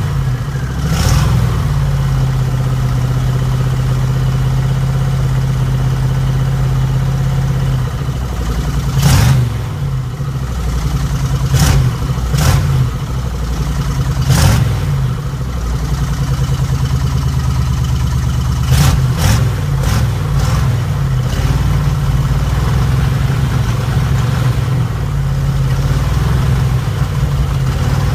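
1972 Dodge B200 van's 318 V8 running through a new exhaust with Thrush mufflers, idling steadily with several short blips of the throttle.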